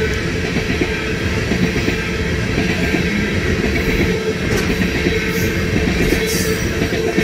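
Open-top hopper cars of a freight train rolling past: a steady rumble and clatter of steel wheels on the rails, with a thin steady whine running through it.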